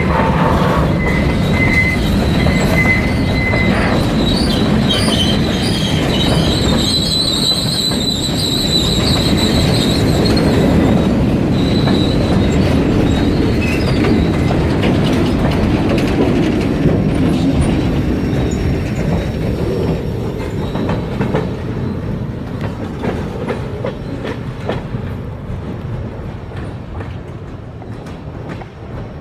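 Freight train rolling past: a steady rumble of wheels on rail with clickety-clack, and high wheel squeals in the first ten seconds or so. The rumble fades over the last several seconds.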